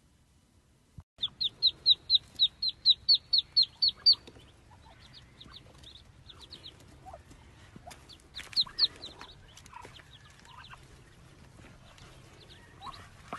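Bird peeping: a fast run of about a dozen high, shrill peeps at about four a second, starting about a second in, then scattered fainter peeps with a brief louder cluster near the middle.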